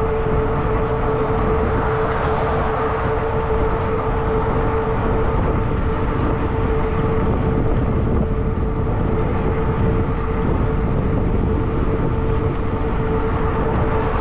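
Riding noise from a fat-tire electric bike on the road: wind buffeting the microphone and tires rumbling on pavement, with a steady whine from the electric motor at an even pitch.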